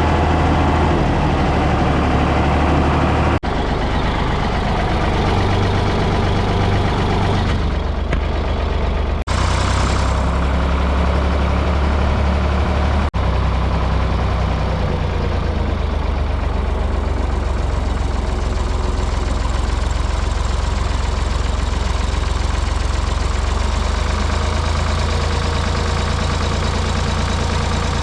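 Ford 555 backhoe loader's engine running steadily at a low, even speed, with sudden jumps in the sound about three and a half, nine and thirteen seconds in where clips are joined.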